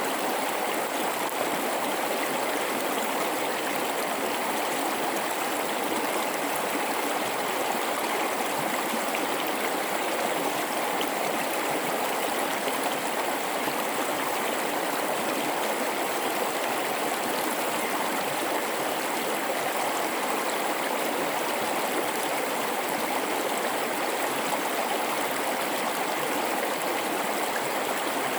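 River water flowing through a gorge: a steady, even rush of moving water that does not change.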